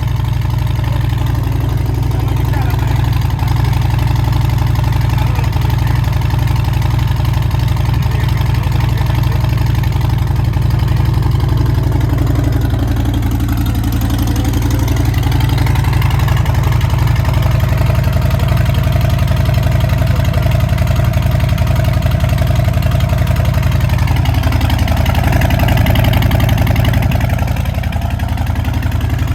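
Harley-Davidson Fat Boy's Milwaukee-Eight 114 V-twin running through a Big Radius aftermarket exhaust, a steady loud low rumble. Its pitch dips and rises again twice, about midway and near the end.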